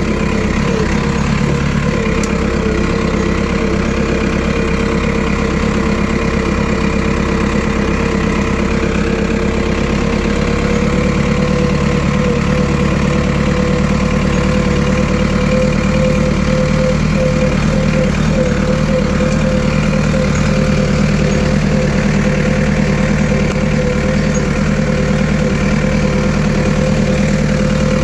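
Tractor engine running steadily at a constant speed, with its pitch rising slightly about ten seconds in.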